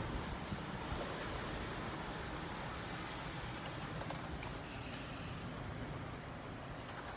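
Steady rush of typhoon wind sweeping around a tall building, heard from inside, easing slightly toward the end.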